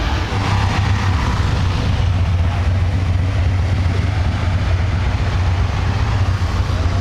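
Motorcycle engines running at low speed, a steady deep rumble under a haze of street noise.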